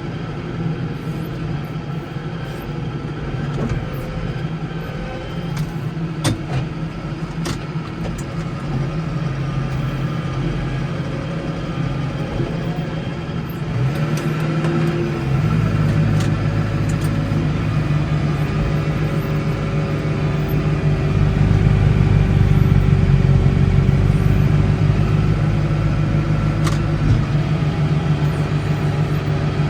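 Case 115U tractor engine running steadily. About halfway through it rises in pitch and gets louder, holding the higher speed to the end, with a few sharp ticks along the way.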